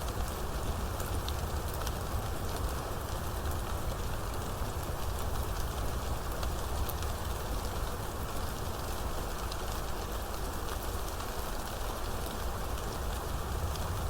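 Steady rainfall with a dense hiss of drops and fine scattered ticks of individual drops hitting a surface, over a constant low rumble.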